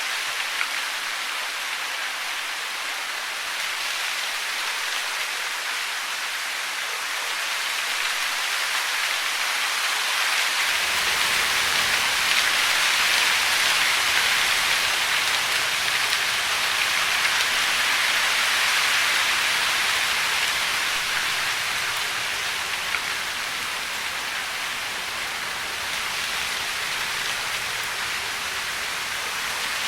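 Steady hiss of falling water, even and without a beat, swelling a little louder mid-way and easing again, and gaining a fuller low end about a third of the way in.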